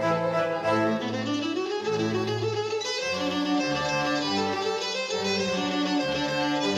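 A string orchestra playing: violins carry sustained notes over a cello line that moves step by step, with a rising phrase about a second in.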